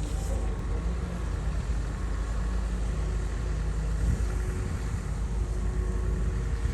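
Komatsu bulldozer's diesel engine running steadily with a deep low rumble.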